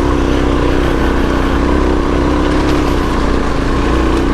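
Suzuki DRZ400S single-cylinder four-stroke dirt bike engine running steadily at an even throttle, with no revving up or down.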